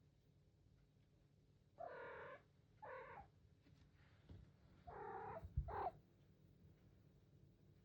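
Domestic cat calling four times in two pairs: short, pitched meows. A soft low knock comes just before the last call.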